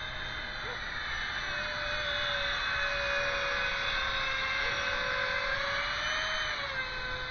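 Electric ducted fan of a 3D-printed thrust-vectoring drone running with a steady whine, its pitch drifting slowly up and down and its level swelling a little in the middle.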